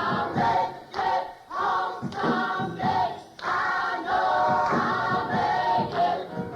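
Church choir singing a gospel song, with voices holding long notes over a steady beat of sharp hits.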